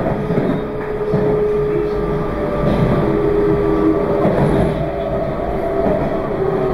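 Meitetsu 2200 series limited express electric train running, heard from inside the car: a steady rumble of wheels on rail, with a faint whine in several pitches that shifts slightly as it goes.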